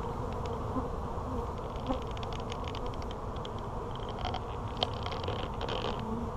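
Honey bees buzzing around an opened hive, with scattered light clicks and scratchy sounds throughout.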